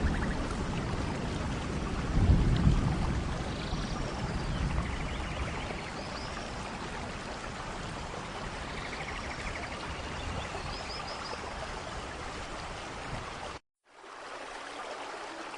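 Steady rainforest rain with low thunder rumbles in the first few seconds and faint high chirps over it. The sound cuts out completely for a moment about 14 seconds in, then the rain resumes more quietly.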